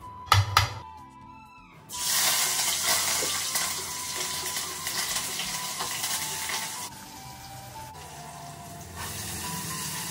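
Food sizzling as it fries in a brass pan on a gas stove, starting suddenly about two seconds in and easing off after about five seconds. Just before it, a spoon knocks twice against a steel mixing bowl.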